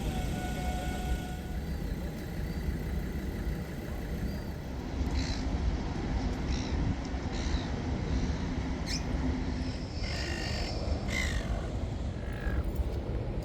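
A bird giving a series of short, harsh calls, starting about a third of the way in and repeating every second or so, over a steady low outdoor rumble.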